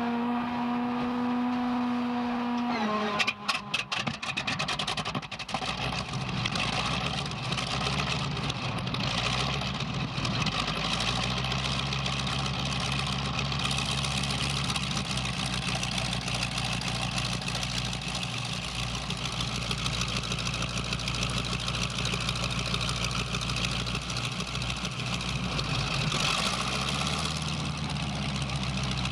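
An engine starting: a steady whine for about three seconds, then a few sharp pops as it catches, then steady idling. It revs up briefly near the end.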